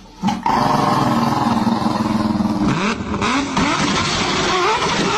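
An engine-like drone holds a steady pitch, then from about three seconds in rises and falls repeatedly, like revving.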